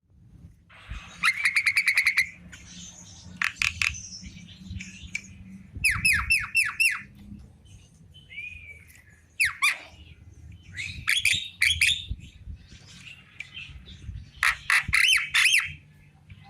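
Javan myna calling: a run of short phrases of rapid sharp chattering notes, squawks and quick falling notes, each lasting about a second, with brief pauses between.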